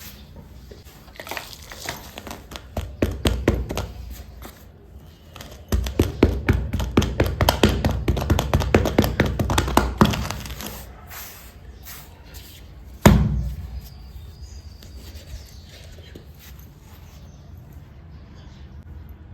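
Cement being poured and worked on a floor: fast runs of small crackling clicks, loudest and densest from about six to ten seconds in, then a single sharp thud about thirteen seconds in.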